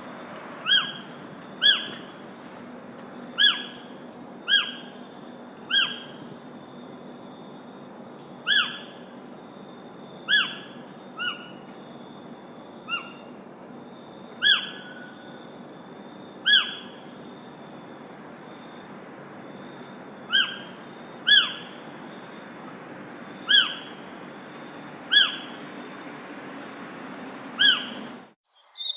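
A bird repeats a single short, downward-slurred call note every one to two seconds over a steady background hiss. The sound cuts off abruptly near the end.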